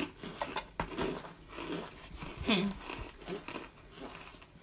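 Dry microwaved cornstarch chunks being handled and broken, with scattered crunching and crinkling and a sharp click about a second in. A short voice-like sound comes about halfway through.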